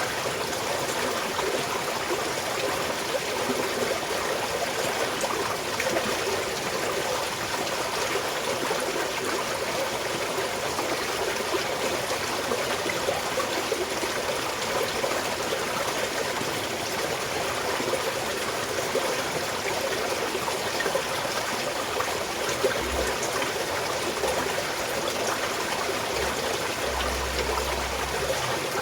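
Small mountain stream flowing and trickling steadily, an even rush of running water.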